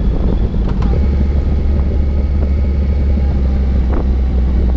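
Motorcycle engine running steadily while riding, a loud, constant low rumble.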